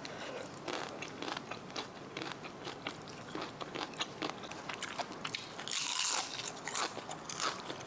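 A person chewing crunchy food close to the microphone: a run of short, sharp crunches, with a louder, longer crunch about six seconds in.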